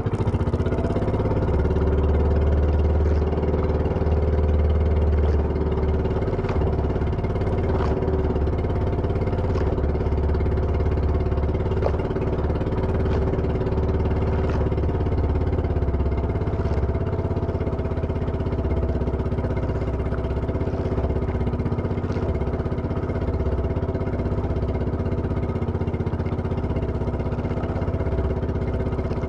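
A small engine running steadily at a constant speed, with a low rumble and a few light clicks.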